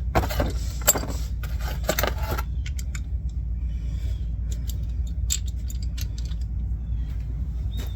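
Metal clinking and rattling from a ratchet and socket working on the idler arm's mounting bolts. There is a dense cluster of irregular clicks for the first two and a half seconds, then scattered clicks, over a steady low hum.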